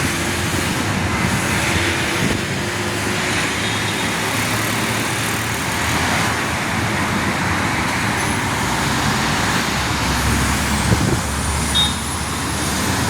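Steady road traffic noise, with a brief louder knock about eleven seconds in.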